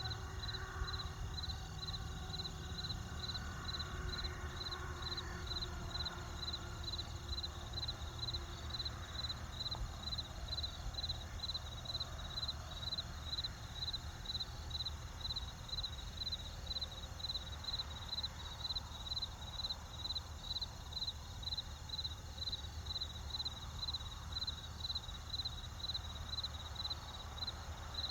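Cricket chirping steadily, about two evenly spaced high chirps a second, over a low steady rumble.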